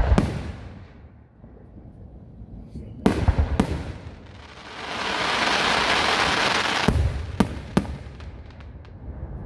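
Fireworks going off: a bang, then two more a few seconds in, a long crackling hiss in the middle, another burst of three bangs, and small crackles near the end.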